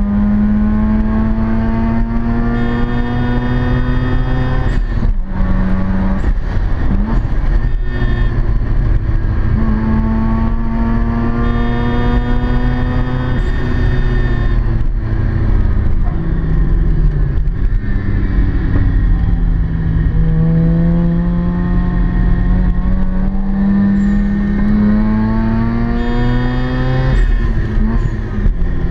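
Mazda RX-7 FC3S rotary engine heard from inside the cabin under hard acceleration, its pitch climbing steadily through each gear and dropping sharply at each upshift, about three times. In the middle it eases off and falls in pitch before pulling up again.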